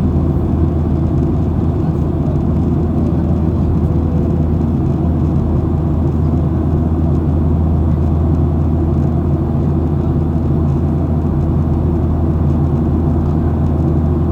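Steady low drone of engine and air noise heard inside a Boeing 737's cabin in flight.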